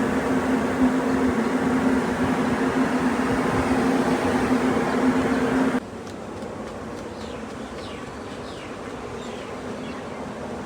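A steady buzzing hum over a noisy background that cuts off abruptly about six seconds in, leaving a quieter steady background noise.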